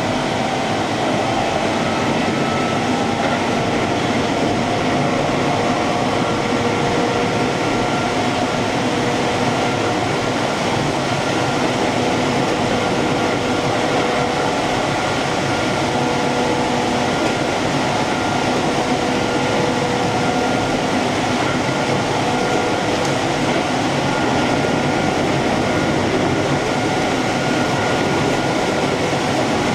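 Keihan electric train running along the line, heard from inside the car: a steady rumble of wheels on the rails with a faint, even motor whine.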